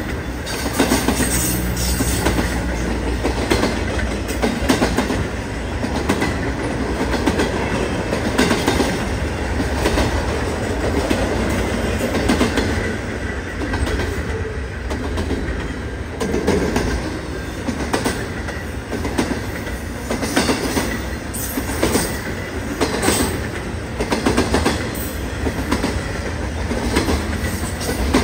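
BNSF intermodal freight train's flatcars and double-stack well cars rolling past: a steady rumble with repeated clicks and clacks of wheels passing over rail joints.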